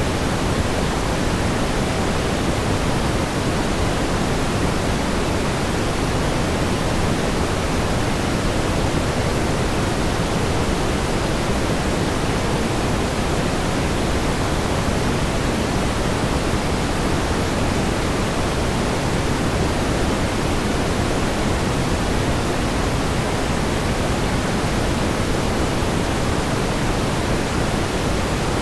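Steady pink noise: an even, unchanging hiss, fuller in the low and middle range than in the highs, with no events or variation.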